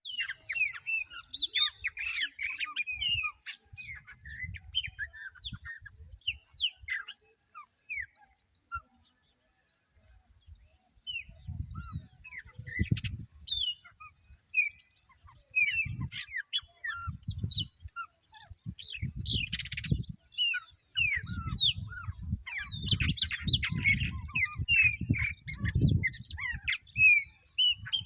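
Several species of wild birds singing and calling at once, a dense overlapping mix of short chirps and pitch glides, thinning to near silence for a few seconds about a third of the way in. Bouts of low rumble run underneath.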